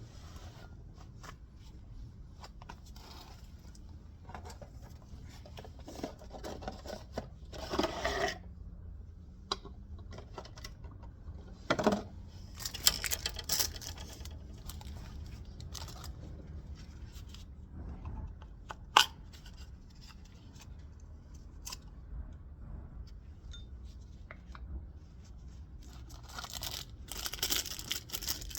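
Irregular clicks, clinks and short scraping and rustling noises of tools and parts being handled during an oil change, over a low steady hum. One sharp click about two-thirds of the way through is the loudest.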